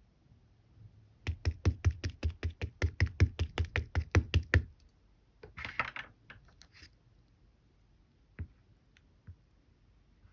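Fingers tapping rapidly on slime topped with clay meringue: about twenty light taps with a soft thud, some six a second, then a brief crunchy rustle and a few faint clicks.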